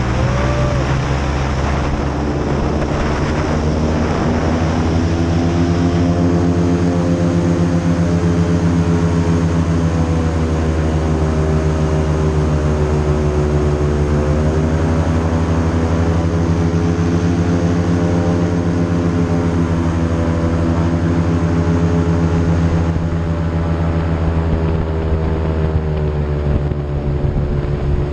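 Airboat engine and its large air propeller running at speed, a loud steady drone. The pitch climbs over the first several seconds, then dips slightly midway and again near the end as the throttle eases.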